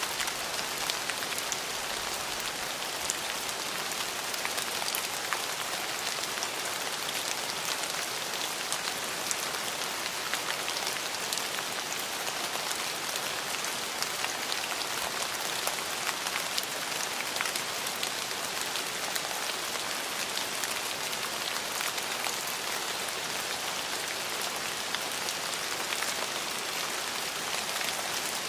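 Steady rain falling, an even hiss with many individual drops ticking sharply on a hard surface close by.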